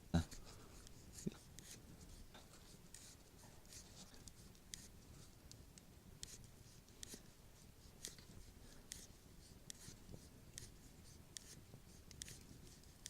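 Faint wood fire crackling: irregular sharp little pops and snaps, with one louder thump right at the start.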